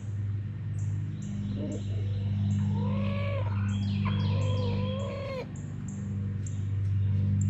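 Chickens calling: two drawn-out, wavering calls, a shorter one about three seconds in and a longer one right after, over a steady low hum and many short high chirps.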